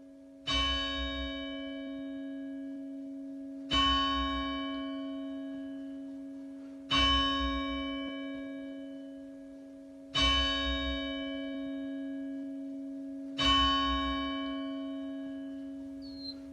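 A single church bell tolling: five strikes about three seconds apart, each the same note, ringing on and slowly fading before the next.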